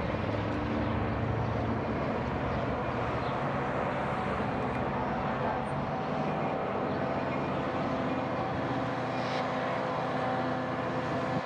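A vehicle engine running steadily, with a low hum and a constant rush of noise.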